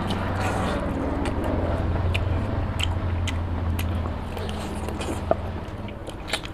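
Close-miked biting and chewing of chicken curry with rice: wet mouth clicks and smacks scattered throughout, over a low steady hum.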